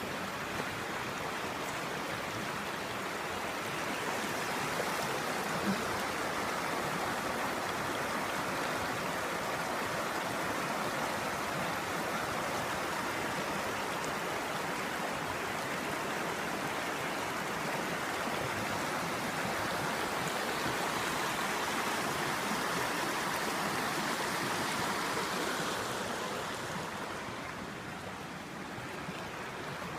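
River water flowing and rushing in a steady wash, growing a little softer near the end.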